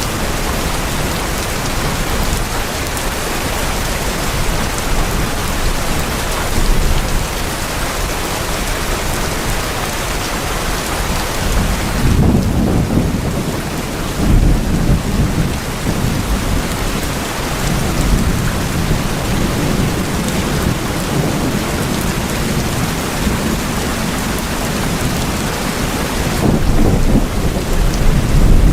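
Steady heavy rain falling on tin roofs, with low rumbles of thunder about halfway through and again near the end.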